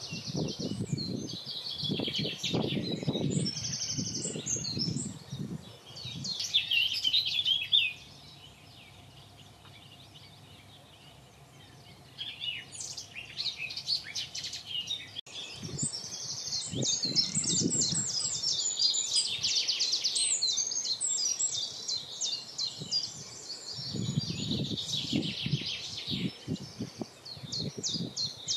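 Wild birds singing: repeated phrases of rapid, high trilling and chirping song, with a lull of a few seconds about a third of the way in. Bursts of low rumbling noise come near the start and again near the end.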